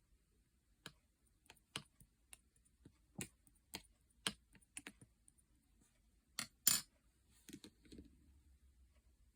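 Slime being pressed and worked by hand, giving irregular sharp clicks and pops. The loudest pop comes about two-thirds of the way through.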